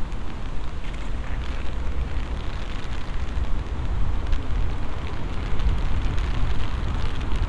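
Rain falling in a city street, many small drop ticks over a steady hiss, with a strong low rumble underneath.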